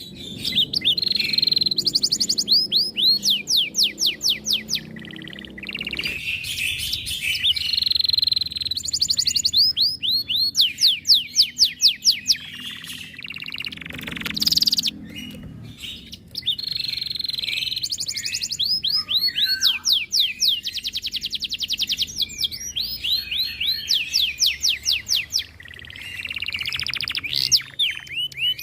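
Domestic canary singing a long, continuous song: fast trills of rapidly repeated down-slurred notes alternating with buzzy held phrases, broken by a few short pauses.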